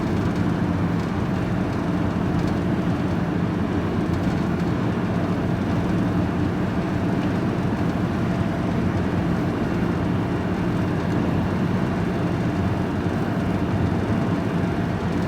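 Engine and road noise inside a moving vehicle's cab: a steady drone with a constant low hum, unchanging throughout.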